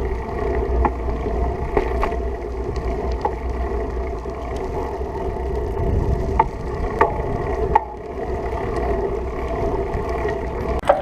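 Riding noise while cycling: steady wind rumble on the microphone and humming tyre noise, with scattered sharp ticks.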